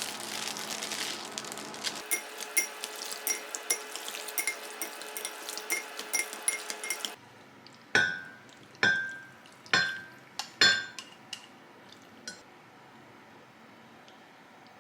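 Dishes and glassware clinking: a quick run of light, ringing clinks for about five seconds. After an abrupt cut, four louder ringing clinks follow about a second apart.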